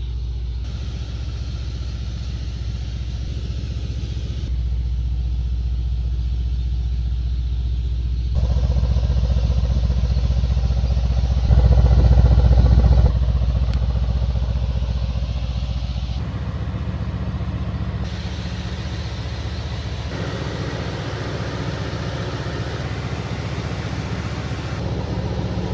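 Mercedes-AMG C63 S's 4.0-litre twin-turbo V8 pulling the car along, a steady low drone mixed with road noise from inside the cabin. It grows louder in steps and is loudest a little before halfway, then settles back.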